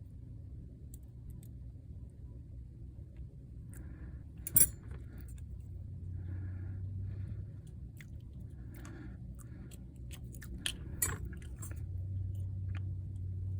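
Small metal hand tools clicking, tapping and scraping against a watch's parts during a battery replacement, with a sharp click about four and a half seconds in and a few more near eleven seconds, over a steady low hum.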